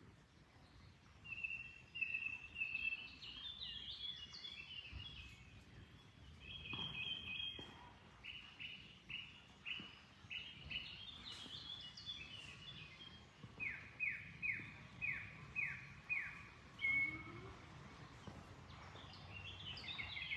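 Songbirds singing over a low, steady rush of flowing water. One bird repeats short, sharply down-slurred notes about two a second, in one run about eight seconds in and a longer run of six notes a little past the middle, with other chirps and trills around them.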